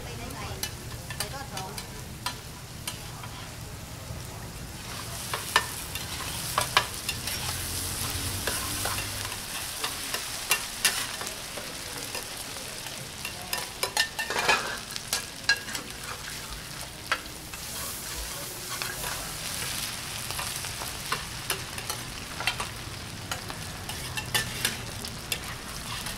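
Fried mussels in egg batter sizzling in hot oil on a large iron pan, a steady hiss that grows stronger about five seconds in. Over it come frequent sharp scrapes and clicks of a metal spatula against the pan as the cook chops and turns the mixture.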